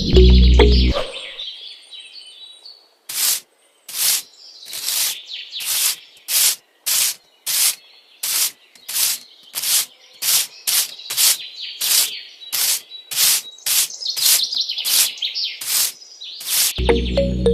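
Birds chirping, with a run of short scraping or rubbing strokes, about two a second, starting about three seconds in.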